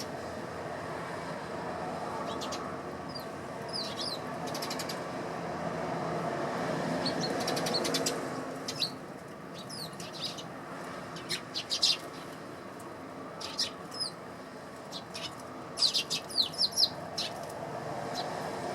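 Eurasian tree sparrows chirping in short, scattered calls, busiest around the middle and near the end, with bird wings flapping, over a steady background hum.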